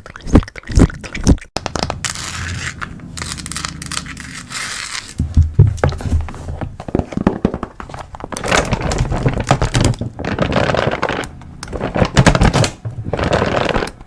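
Close-miked ASMR handling sounds: scraping, crinkling and tearing with many sharp clicks and taps, in quick irregular runs.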